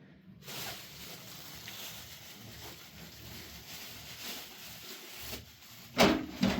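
A steady hiss that starts suddenly about half a second in, with two loud knocks close together near the end.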